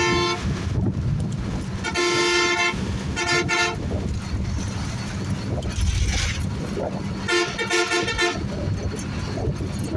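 Road-vehicle horns honking repeatedly over a steady engine and road rumble: one blast ends just after the start, two more sound around two and three seconds in, and a choppier, stuttering honk comes near eight seconds.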